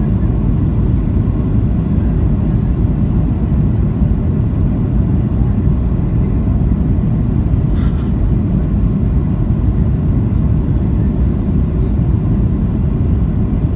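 Boeing 737-800 cabin noise: a loud, steady low rumble of engines and airflow, heard from a passenger seat. A brief knock is heard about eight seconds in.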